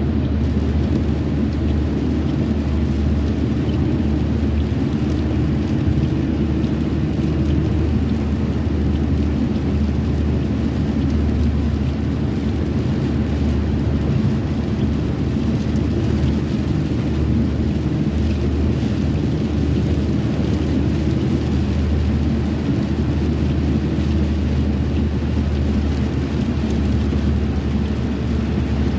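Steady low rumble of a car driving on a rainy road, with rain noise mixed in. The rumble stays level throughout.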